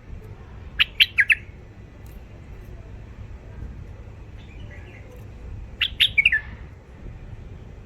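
Young caged bulbuls calling, with two quick bursts of three or four sharp, sliding notes: one about a second in and another near six seconds.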